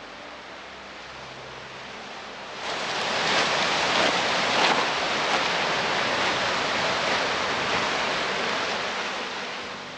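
Surf washing on a shore: a steady rush of waves that swells up sharply about three seconds in and eases off near the end.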